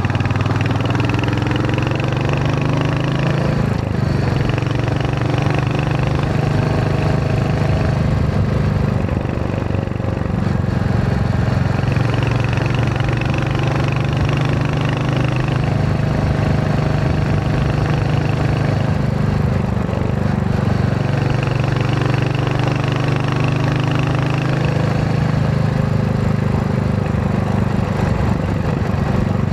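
Royal Enfield Hunter 350's single-cylinder engine running while riding, its note climbing and falling back several times as the bike accelerates and eases off.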